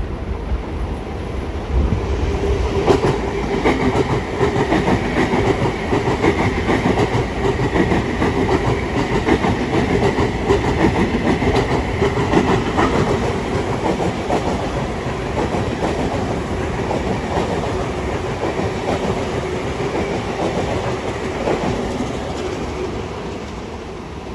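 Long Island Rail Road commuter train passing, wheels clattering rapidly over rail joints with a steady hum. It grows louder about two seconds in and eases off near the end.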